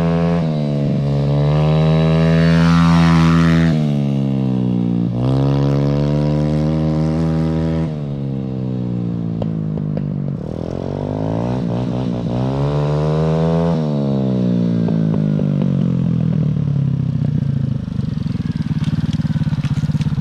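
125cc semi-automatic four-speed pit bike engine pulling hard through the gears, revs climbing and dropping at each shift, then winding down steadily as the bike slows near the end.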